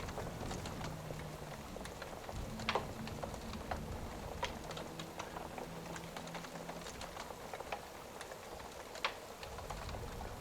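Wood fire crackling with irregular sharp pops, the loudest about three seconds, four and a half seconds and nine seconds in, over a steady bed of rain and low rumble.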